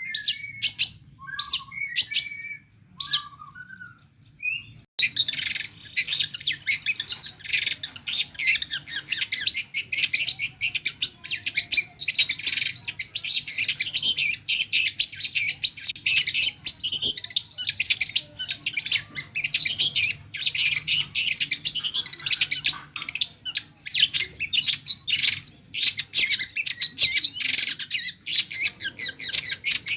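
Long-tailed shrike singing: a few separate sharp calls and short whistles, then from about five seconds in a fast, unbroken stream of chattering song packed with mimicked calls of other birds.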